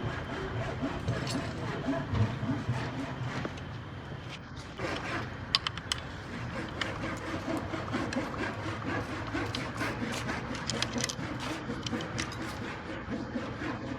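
Hand work on metal parts: repeated small clicks and light scraping of tools and components, over a steady low hum.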